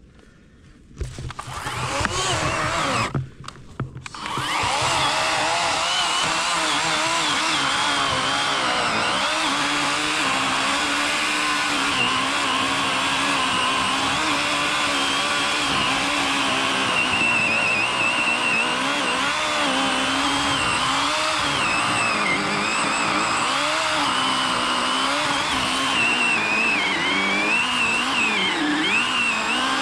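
Battery-powered 40-volt Worx WG384 chainsaw with an 18-inch Oregon bar cutting into a fallen log. The saw starts about a second in, stops briefly, then runs on continuously with its pitch wavering as it cuts.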